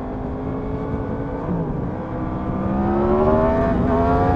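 Yamaha MT-10 SP's crossplane inline-four engine under way, running steadily with a brief dip in pitch about a third of the way in, then rising in pitch as the bike accelerates, falling sharply near the end as it shifts up.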